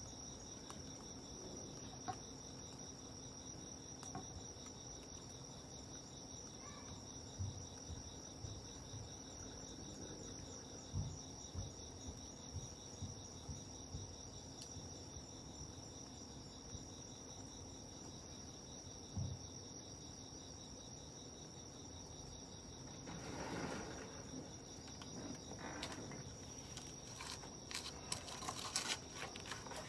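Crickets chirping steadily in a high, even trill. Scattered soft low thumps come through the middle, and rustling with sharp crackly clicks follows from a little past two-thirds of the way through.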